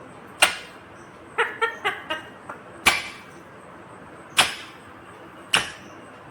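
Indian ringneck parakeet giving short, shrill screeches, about five single calls spaced a second or more apart with a quick run of short chirps about a second and a half in.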